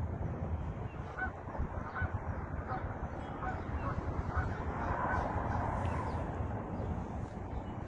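Birds calling several times, short calls over a steady low rumble.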